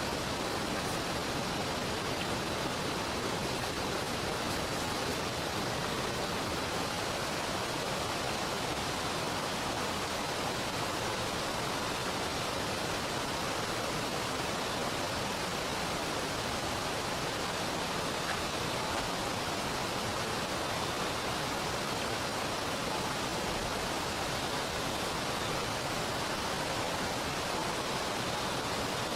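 Steady, even rush of heavy rain and river water, unchanging throughout.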